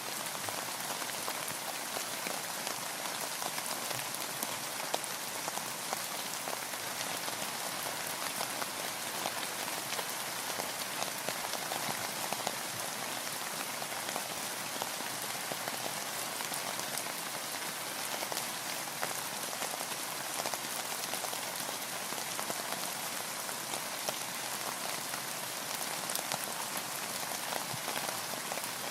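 Steady rain falling, with a dense patter of many individual drops striking a surface close by.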